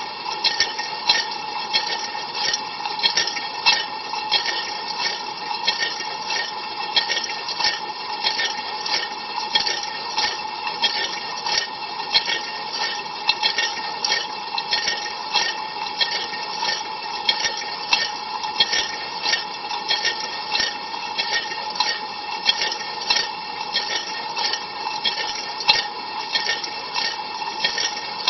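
Ariston LV 46 dishwasher rinsing with cold water, heard from inside the tub: water from the rotating spray arm lashes the walls and racks in rapid regular pulses, about two a second, over the steady whine of the circulation pump. The spraying stops abruptly at the very end.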